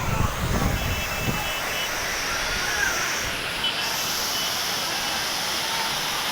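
Waterfall rushing as a steady, loud wash of noise. Irregular low rumbling thuds sit on top of it in the first second and a half.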